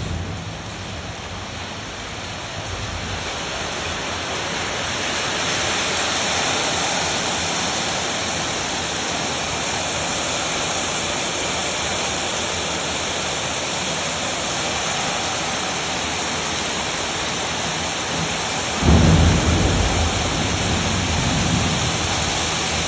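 Heavy rain falling steadily, growing a little louder over the first few seconds, with a low rumble of thunder about 19 seconds in.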